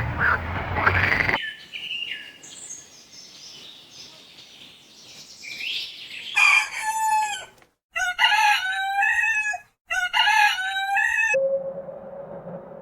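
Rooster crowing three times in quick succession, each crow cut off abruptly, after a few seconds of faint high chirping.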